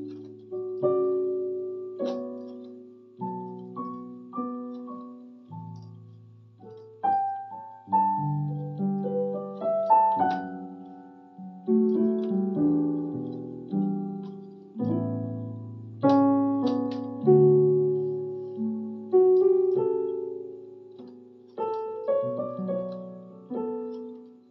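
Electronic keyboard playing a slow piano melody with chords in the left hand, each note struck and fading away.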